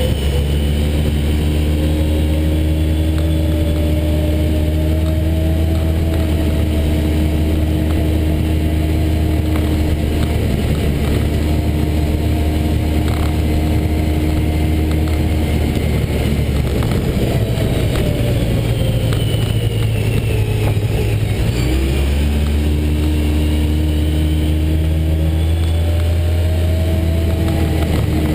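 Car engine running while driving on a rough dirt road, with wind and road noise. The engine note holds steady and creeps upward, dips for a few seconds a little past the middle, then climbs back.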